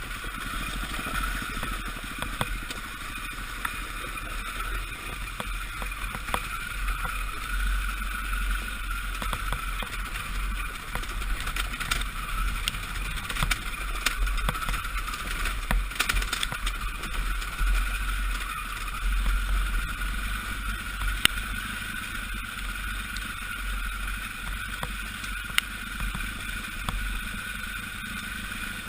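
Four-stroke enduro dirt bike engine running at a fairly steady pitch while being ridden, with scattered sharp knocks over it.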